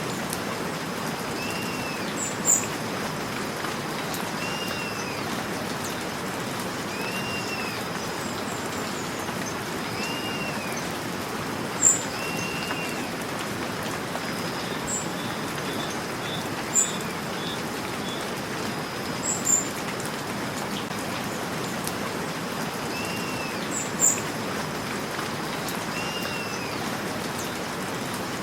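Steady rain falling, with a bird repeating a short arched chirp every two to three seconds. A few sharp, very high chirps stand out as the loudest moments.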